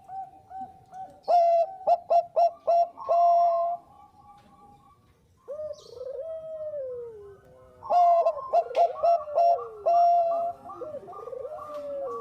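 Zebra dove (Bangkok perkutut) song: a fast run of short staccato coos ending in a held note, then a long falling coo, the phrase repeated twice with other coos overlapping.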